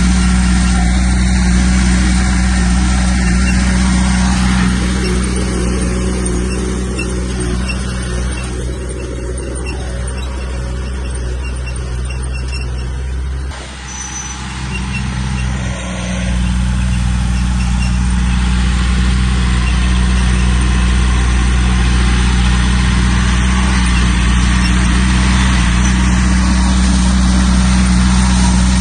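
Heavy diesel engine of earth-moving machinery running steadily. It eases off in the middle and dips briefly about halfway through, then picks back up.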